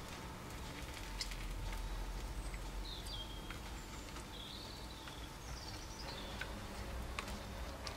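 Birds chirping a few short calls over a steady low hum of room noise, with faint scattered clicks.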